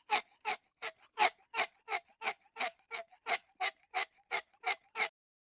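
Clock ticking sound effect used as a quiz countdown timer: even ticks about three a second, stopping about five seconds in.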